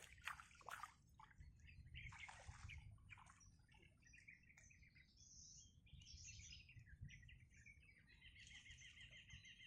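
Faint bird chirps and calls, scattered at first, then a rapid trill in the last second or two.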